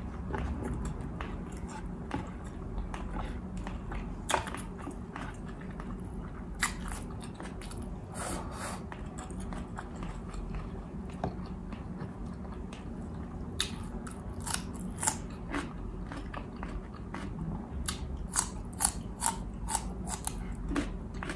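A person chewing bistek tagalog (beef steak with onions) close to the microphone. There are scattered sharp crunches and clicks, which come more often in the second half.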